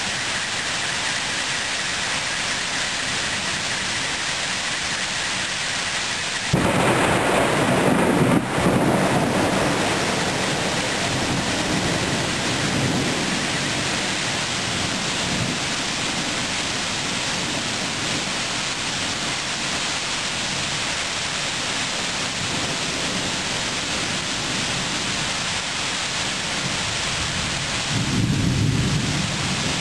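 Thunderstorm with rain falling steadily. About six seconds in, a sudden loud thunderclap breaks and rumbles on for a few seconds before fading, and a second, shorter roll of thunder swells near the end.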